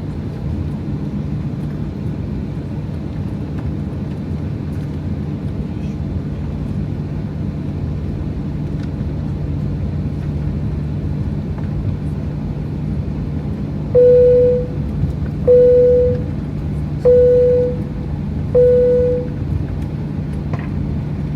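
Steady low hum of an airliner cabin waiting before takeoff. Near the end it is broken by four identical chime tones, each fading out, about a second and a half apart.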